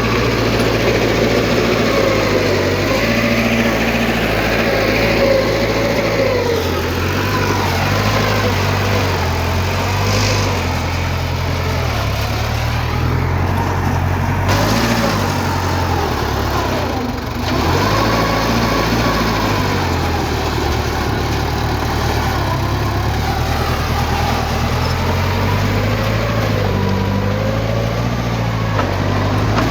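Heavy diesel earthmoving machinery running steadily, its engine note rising and falling with load. Over it runs a wavering higher-pitched whine.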